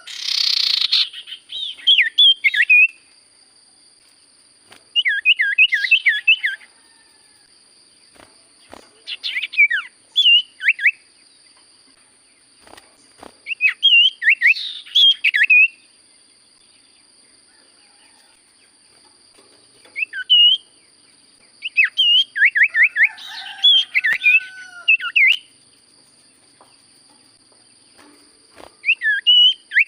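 Cipoh (common iora) singing in short bursts of quick, chirping whistled notes, a phrase every few seconds with pauses between, over a faint steady high-pitched whine.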